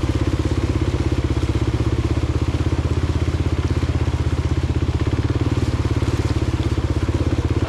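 2023 Kawasaki KLX 300's single-cylinder four-stroke engine running at a steady, even beat as the bike wades through foot-deep water.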